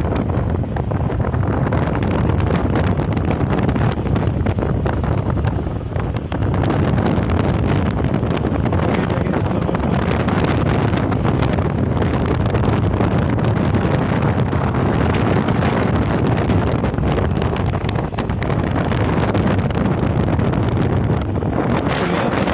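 Wind buffeting the microphone on a moving motorcycle, with steady riding noise from the motorcycle beneath it; the wind eases briefly twice.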